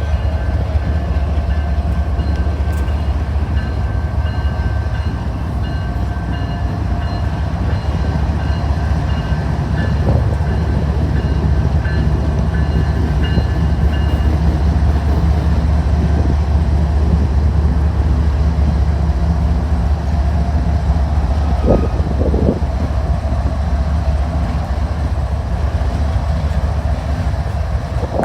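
A train passing with a steady low rumble, with faint high ringing tones from the wheels and rails in the first half.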